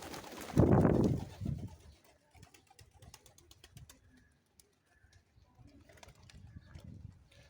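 Pigeon: a loud burst of flapping and scuffling in the first two seconds, then soft low cooing and light ticks.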